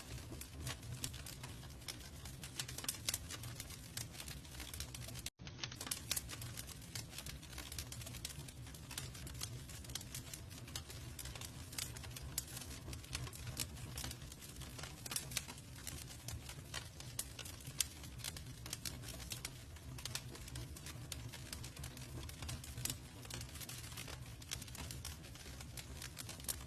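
Wood fire crackling and popping continuously over a low steady rumble of the flames, with a momentary silent dropout about five seconds in.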